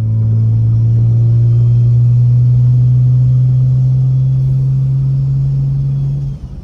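Straight-piped, big single turbo BMW N54 inline-six in a 335i, running loud and steady at a constant pitch under throttle. Near the end it drops out briefly as the throttle is lifted.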